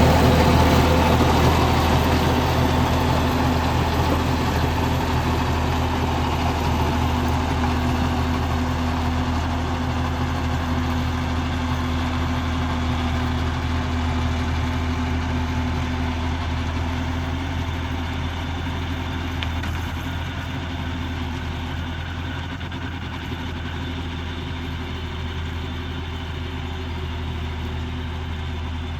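John Deere 5310 tractor's diesel engine running steadily with a deep hum, gradually growing fainter.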